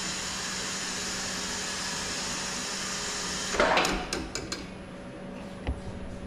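Vehicle lift lowering the car: a steady hiss with a faint hum that cuts off about three and a half seconds in with a loud clunk, followed by a few sharp clicks.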